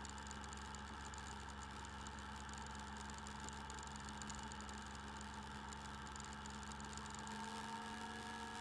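Motorcycle engine running steadily as the bike rides along, picked up by the bike-mounted camera's microphone, with a slight change in the engine note near the end.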